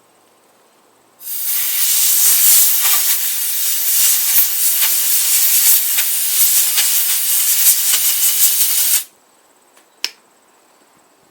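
Compressed air hissing steadily for about eight seconds, blowing dust and oily buildup out of a chainsaw's air filter. It starts abruptly and cuts off sharply, and a single click follows about a second later.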